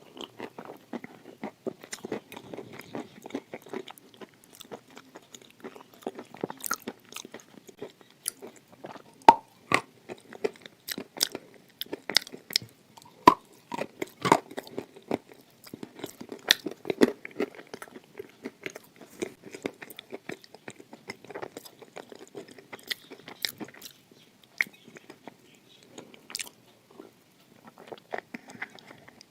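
Close-miked crunching and chewing of hard, dry red edible clay: irregular sharp cracks as pieces are bitten and ground between the teeth, with a few louder snaps around the middle.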